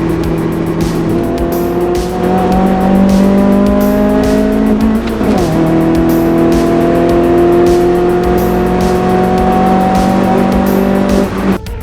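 Proton Wira's 1.8-litre 4G93 MIVEC four-cylinder engine accelerating hard, its revs climbing steadily, dropping at a gear change about five seconds in, then climbing again before cutting off near the end.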